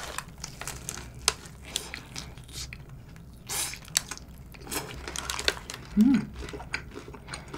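A person biting into and chewing a burger, with crisp crunches and short clicking mouth sounds, and a brief hummed "mm" about six seconds in.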